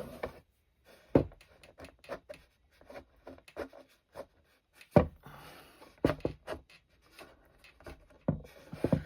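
A scraping tool dragged in short strokes across wet watercolour paper, lifting out paint to make rock texture, with a few sharp taps and knocks against the paper and table.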